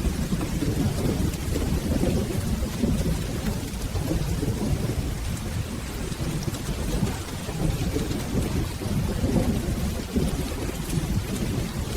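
Steady rain with rolling thunder rumbling low underneath, the rumble swelling and easing without any sharp crack.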